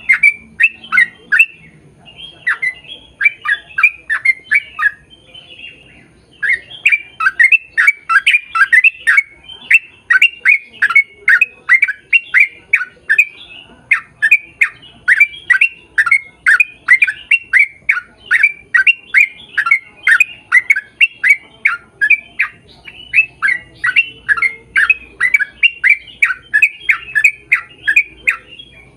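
A bird calling over and over in short, loud squawks that sweep downward, about three a second, with a brief pause about five seconds in.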